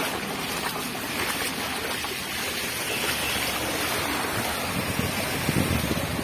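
Steady rushing noise of cyclone wind and rain, with wind buffeting the microphone; heavier low rumbles of gusts near the end.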